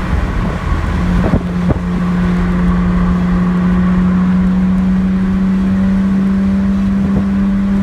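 2009 BMW 135i's twin-turbo N54 straight-six and Berk Racing exhaust running as the car drives, heard from inside the cabin. About two seconds in, after a couple of short clicks, a steady drone settles in at one even pitch and holds.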